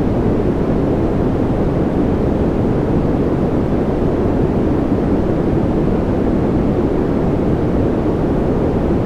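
Continuous generated white noise for sleep: an even, unchanging rush, heavier in the low end than in the hiss.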